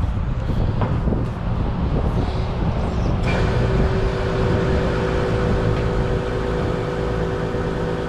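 Royal Enfield Interceptor 650's parallel-twin engine running under way, with road and wind rumble. From about three seconds in, a steady engine note holds.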